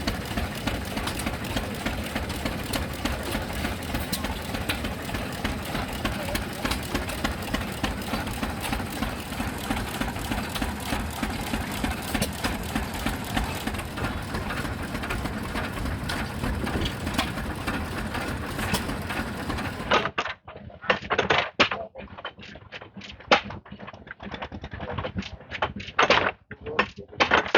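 Machinery running steadily with a fast clatter. It cuts off abruptly about 20 seconds in, giving way to irregular sharp clicks and knocks.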